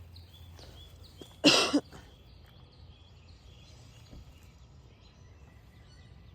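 A short, loud cough, two quick bursts about a second and a half in, over faint outdoor background with small high chirps.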